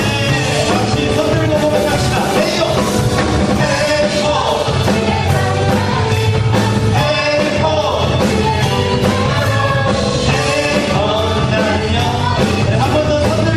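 Praise band playing and singing a contemporary worship song: sung melody over a full band with a steady beat.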